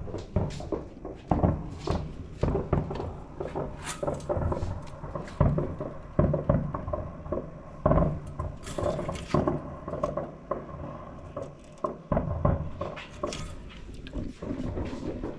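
Fireworks going off: a string of irregular bangs and crackles.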